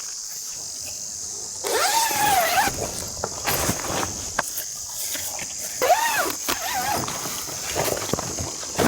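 Insects chirring in a steady high drone. Twice, about four seconds apart, an animal gives a drawn-out pitched call that rises and then falls. Scattered light knocks and clicks come in between.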